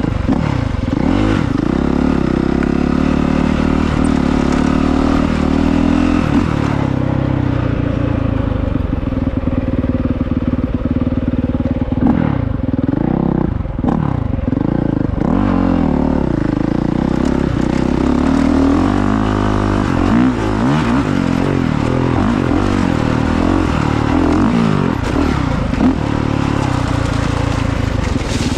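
Honda CRF450R dirt bike's single-cylinder four-stroke engine under way off-road, its pitch climbing and dropping over and over as the throttle is opened and rolled off.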